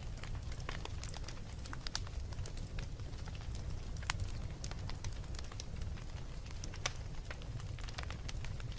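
Wood fire crackling in a fireplace: frequent sharp pops and snaps over a steady low rumble of the flames, with louder pops about four seconds in and again near seven seconds.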